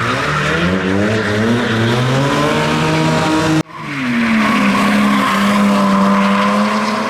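Drift car engine revving up steadily while its tyres squeal and skid through a slide. About halfway through, the sound cuts off abruptly, then resumes with an engine holding steady revs over continued tyre noise.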